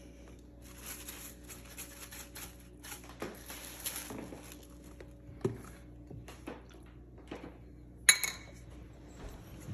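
Kitchen utensils and dishes tapping and clinking against each other in scattered small knocks, with one sharp, ringing clink about eight seconds in.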